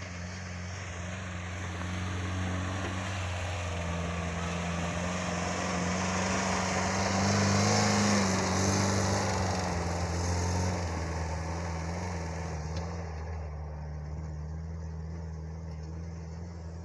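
Homemade mini tractor's engine running steadily while pushing snow with an angled blade, growing louder toward the middle and easing off again.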